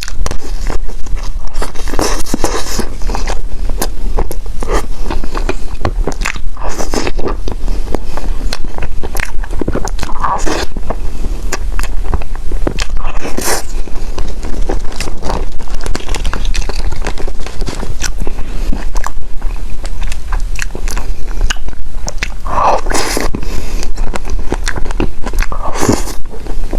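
Close-miked eating sounds: a person biting and chewing food, with many small wet clicks and several louder bites through the stretch, over a steady low hum.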